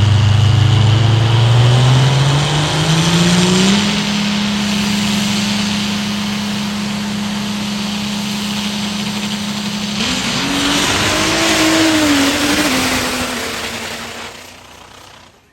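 Diesel pickup truck engine revving up over about four seconds, then held at high revs under load, its pitch wavering about ten seconds in before it dies away near the end.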